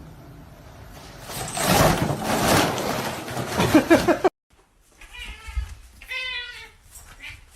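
A loud rushing noise for about three seconds, with a few short pitched cries near its end, cuts off abruptly. Then a domestic cat meows, one clear drawn-out meow about six seconds in.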